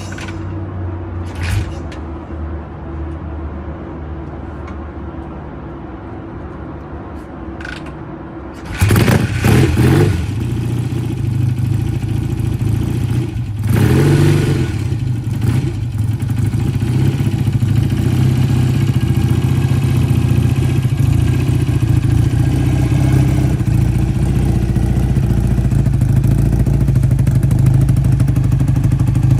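1968 BSA A65 Lightning's 650 cc parallel-twin engine cold-starting: it catches suddenly about nine seconds in, is revved briefly twice, then settles into a steady idle. Before it starts there is a quieter steady low hum and two sharp clicks.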